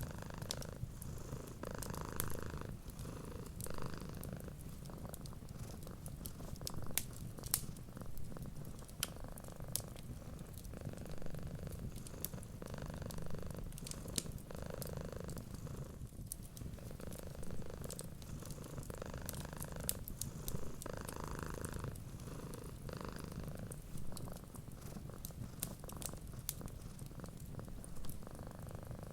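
Cat purring, a steady low rumble that swells and eases with each breath, over the frequent sharp crackles and pops of a wood fire.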